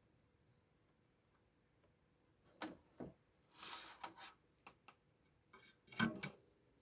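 A few sharp clicks and knocks of small tools and parts being handled on a workbench, with a brief hiss about halfway through and the loudest knocks near the end.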